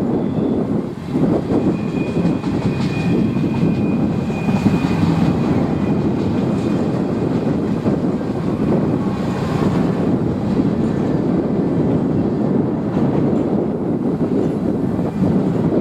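Train rolling past on the rails: a steady rumble of wheels on track, with a faint high wheel squeal in the first few seconds.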